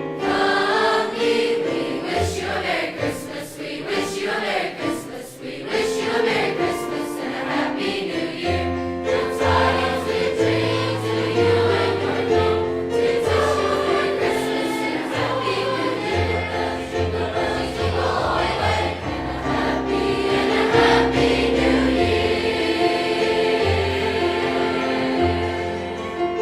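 A large high school choir singing a Christmas song in held chords, over a low line of bass notes.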